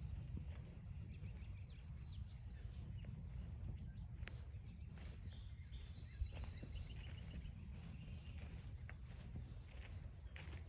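Songbirds calling in woodland, including short runs of quick repeated notes, over a low steady rumble, with footsteps ticking on the trail throughout.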